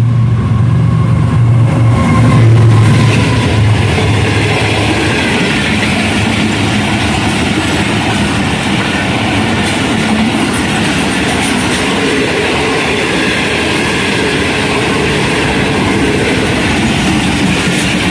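Diesel locomotive of a passenger train passing close by. Its engine drone is strongest in the first few seconds, loudest about two and a half seconds in, and then gives way to the steady rumble and clatter of the coaches' wheels rolling past on the track.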